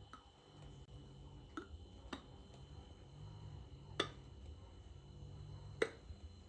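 A few sharp clicks or light knocks over a low steady rumble; the two loudest come about four seconds in and near the end.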